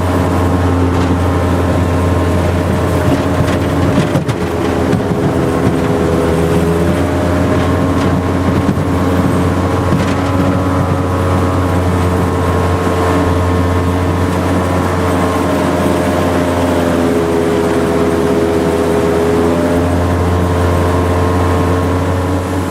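Jet boat engine running steadily under way, with its pitch easing down and back up a little a few times as the throttle changes, over a heavy low rumble.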